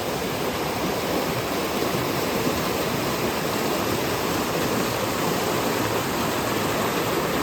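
Mountain river running high after days of rain: a steady, even rush of water.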